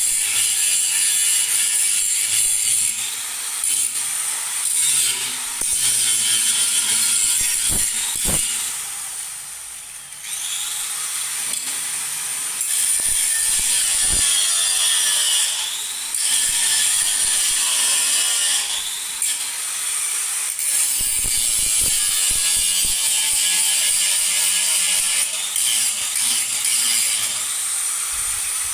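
Continuous harsh mechanical rasping from a workshop tool working on metal, with most of its energy high and hissy. It eases off briefly about ten seconds in, then carries on.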